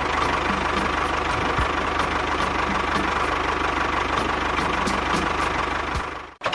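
A small engine running steadily, with a light regular ticking.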